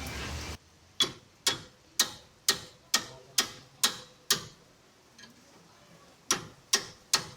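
Sharp metallic taps with a short ring, about two a second: eight in a row, a pause of about two seconds, then three more. A steady rushing noise cuts off suddenly about half a second in.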